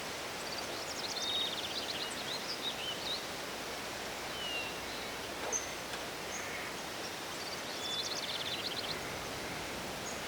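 Forest ambience: songbirds calling over a steady background hiss. Two quick phrases of rapid high notes come about a second in and again near the end, with short whistled calls between.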